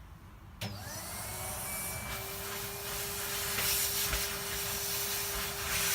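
A vacuum cleaner switched on about half a second in, its motor winding up with a rising whine that settles into a steady running tone over the rush of suction air.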